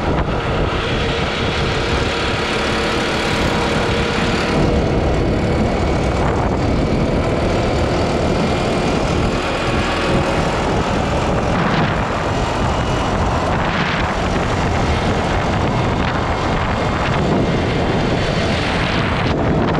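Small off-road vehicle engine running steadily under way, with wind rushing past.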